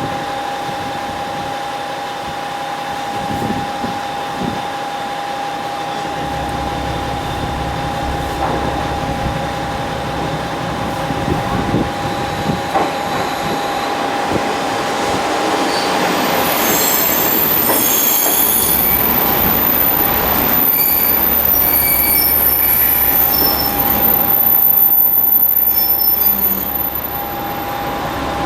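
Train running on rails with a steady whine, growing slowly louder; from about halfway through, the wheels squeal with high, shifting tones.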